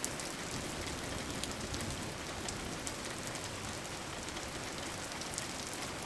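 Steady rain falling on a surface, with scattered individual drops ticking.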